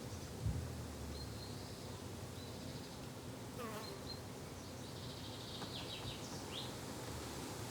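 Flying insects buzzing steadily in a summer garden, with a few short high bird chirps and trills. There is a soft thump about half a second in.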